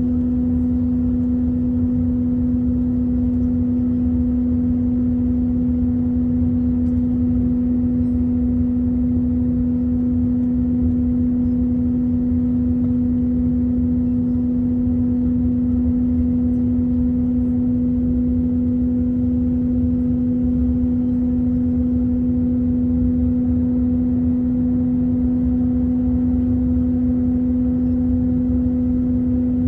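Airbus A321 cabin noise in flight: a steady drone of engines and airflow with a constant low hum and rumble.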